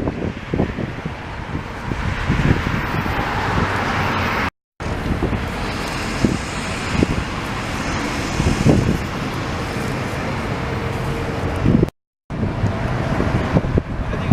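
Cars driving past, with engine and road noise. The sound drops out completely twice, briefly, about four and a half and twelve seconds in.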